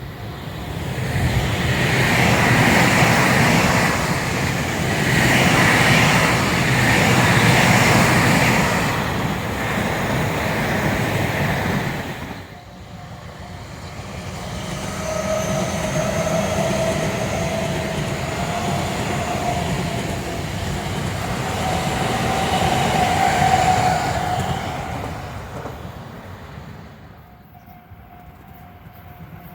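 Electric commuter trains on the Tobu Tojo Line passing, their wheels and running gear making a loud rush that cuts off suddenly about twelve seconds in. A second train then passes more quietly with a faint, slowly rising whine, fading away near the end.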